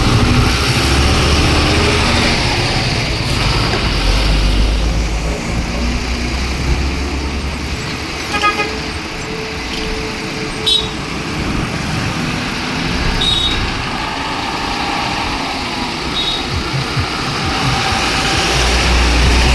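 Heavy road traffic: truck and bus engines running as they pass, with a horn sounding about eight seconds in and a few short, high beeps later.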